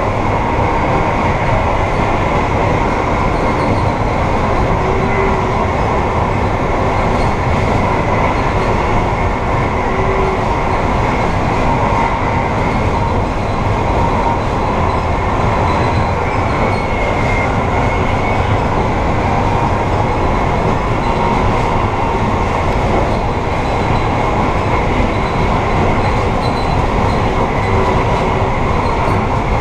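Amtrak passenger train running at speed, heard inside the rear vestibule: a steady, loud rumble of wheels on rail with a faint high whine over it.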